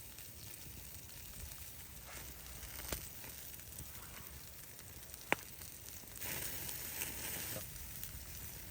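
Campfire crackling with a steady sizzling hiss, broken by two sharp pops. The hiss swells louder for about a second and a half past six seconds in.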